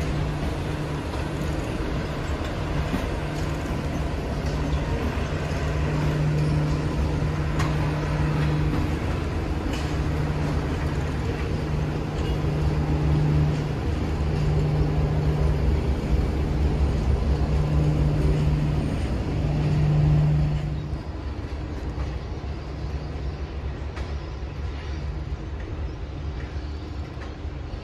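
A train of passenger carriages rolling past with a T-class diesel locomotive, its engine giving a low steady hum that comes and goes and is loudest about twenty seconds in. The sound drops off sharply about 21 seconds in, leaving a fainter distant rumble.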